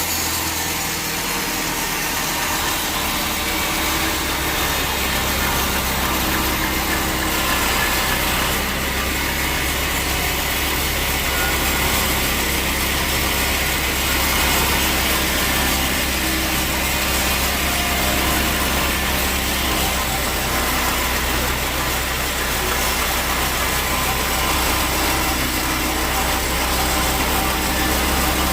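Sawmill machinery running steadily with a constant low hum, like an engine idling.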